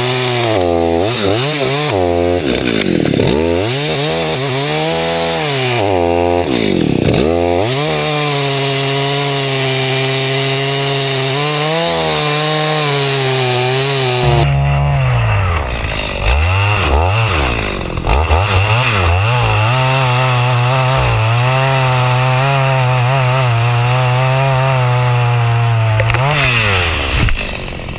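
Two-stroke chainsaw running at high revs while cutting through a thick tree trunk, its engine pitch dipping as the chain loads up in the wood and climbing back, several times. The revs fall away near the end.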